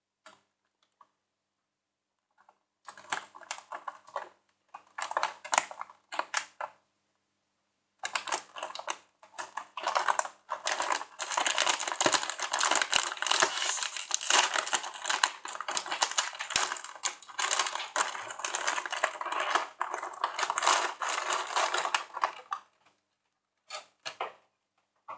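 Crinkling and crackling of a plastic cookie packet being handled and opened: a few short bursts, then a long stretch of dense crackling, with a few clicks near the end.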